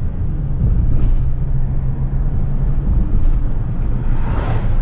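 Vehicle engine and road noise while driving, a steady low rumble with a constant engine tone. A brief rush of hissing noise swells and fades about four seconds in.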